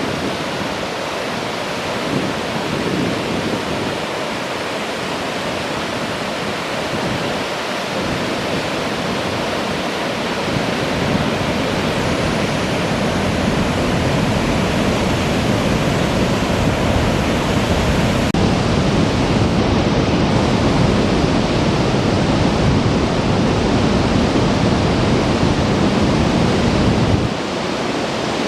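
Steady rushing noise of flowing river water, even and unbroken, with the low rumble thinning slightly near the end.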